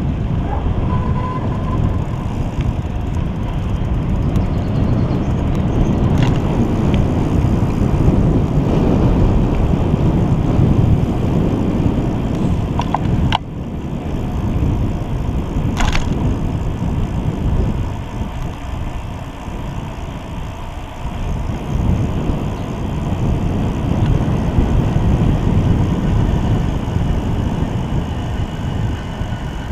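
Wind buffeting the microphone and tyre rumble from a bicycle being ridden on the road, a steady, gusting low rush. Two sharp clicks come a couple of seconds apart around the middle.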